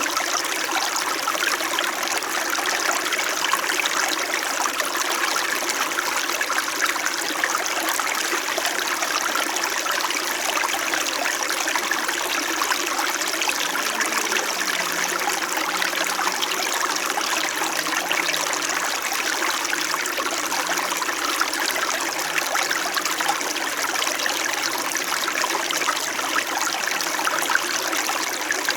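Small mountain stream flowing gently and steadily, a constant babble and trickle of water over rocks.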